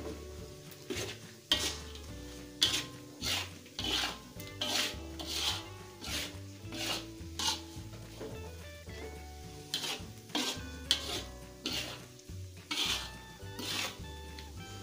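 A metal spatula scraping and stirring thick, drying beef rendang around an aluminium wok, in irregular strokes of roughly one or two a second with a short pause about eight seconds in. Background music plays underneath.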